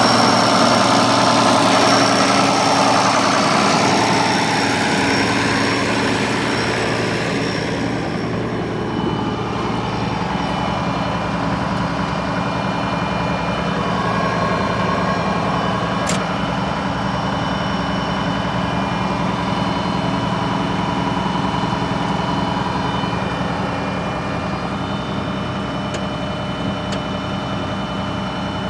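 International Harvester 1086 tractor's turbocharged six-cylinder diesel engine running steadily at idle. It is louder and brighter for the first several seconds, then settles to a slightly lower, duller steady run.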